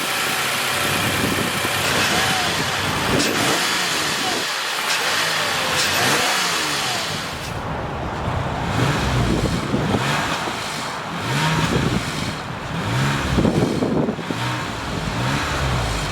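2020 Toyota Highlander's 3.5-litre V6 engine being revved repeatedly, its pitch rising and falling with each blip of the throttle, the revs coming every second or two in the second half.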